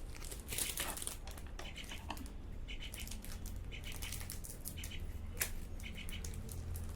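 Crinkling and clicking of plastic packaging being handled, with short chirps repeating about once a second in the background, likely a bird.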